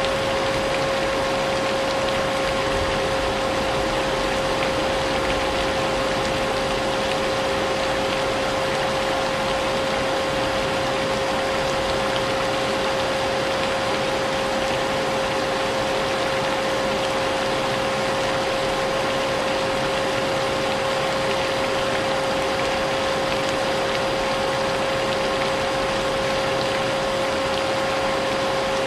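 Vacuum cleaner running steadily with a constant whine, mixed with the even hiss of rain.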